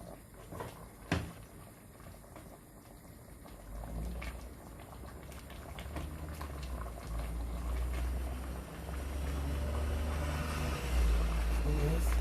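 A pot of chicken in coconut milk sauce bubbling on a gas cooker, with a sharp knock about a second in. A low rumble comes in about four seconds in and grows louder toward the end.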